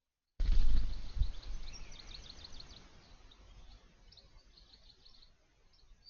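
Small birds chirping: a rapid series of short high calls that cuts in about half a second in, busiest over the first two or three seconds and then thinning out. A low rumble sits under the calls and is strongest as the sound begins.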